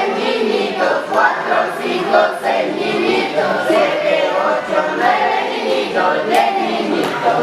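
A group of voices singing together, with little or no instrumental backing.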